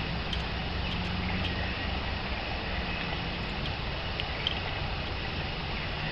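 Steady outdoor background rumble and hiss, with a few faint, short bird chips scattered through it.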